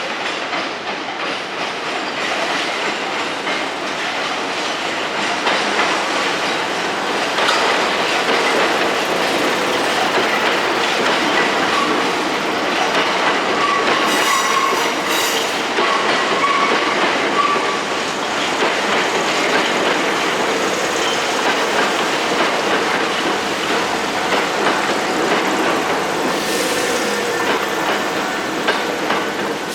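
Hankyu Kyoto Line electric train running through a station without stopping, its wheels clattering over the rail joints. A thin wheel squeal comes in about halfway through for a few seconds.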